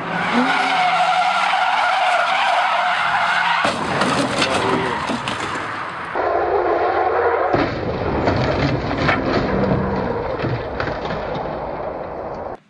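Racing car engines and skidding tyres, loud and continuous, in several short clips that cut abruptly from one to the next.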